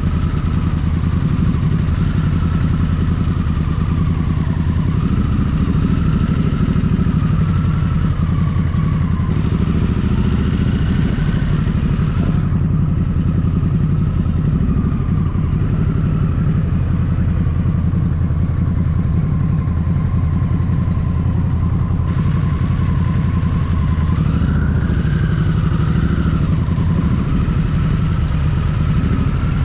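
Motorcycle engine running steadily while riding, its pitch rising and falling gently with the throttle.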